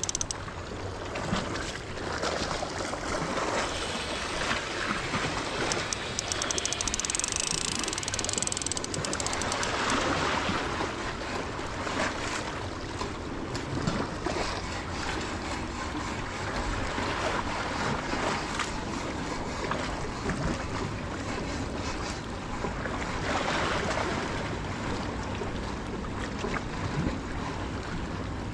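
Sea waves washing and breaking against a rocky shore: a steady rushing wash that swells louder a few times as surges come in.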